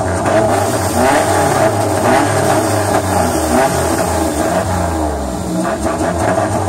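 Straight-piped car engine, with no muffler, being revved repeatedly: loud short revs that rise and fall several times over a running idle.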